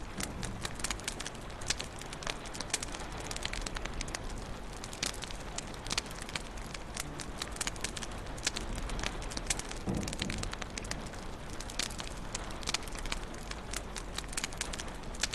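Wood fire crackling in a fireplace: a steady hiss of flames dotted with many sharp pops and snaps, with a soft low thud about ten seconds in.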